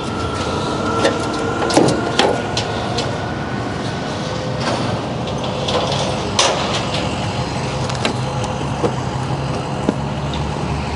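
A vehicle engine running steadily with a thin whine above it, and a few sharp knocks and clanks, the sharpest about two seconds in and again past the middle.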